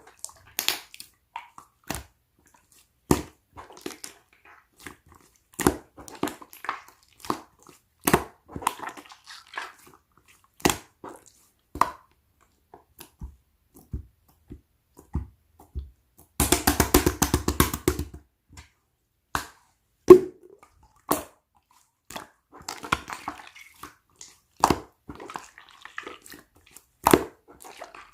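Green rice-cake-textured slime being squished and poked by hand, giving scattered sharp wet clicks and pops. About sixteen seconds in comes a rapid run of crackling clicks lasting about two seconds.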